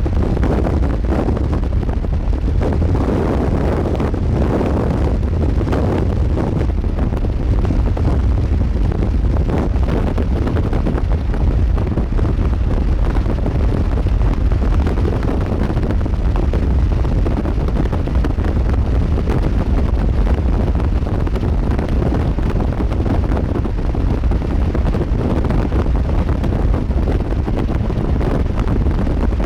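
Strong wind buffeting the microphone: a loud, steady low rumble with a hiss over it.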